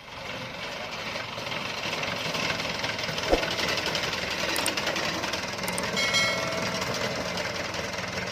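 Diesel engine of heavy farm or earth-moving machinery running steadily with a knocking chatter, and a single sharp knock about three seconds in.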